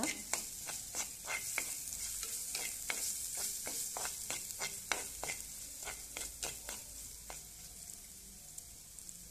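Chopped garlic, ginger and whole spices sizzling in hot coconut oil in a clay pot, stirred with a spatula that scrapes and knocks against the pot, a few clicks a second. The stirring thins out after about seven seconds and the sizzle grows fainter.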